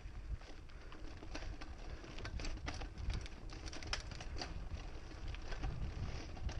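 Mountain bike rolling over a dirt trail: a low rumble of wind and tyre noise with irregular clicks and rattles from the bike over rough ground.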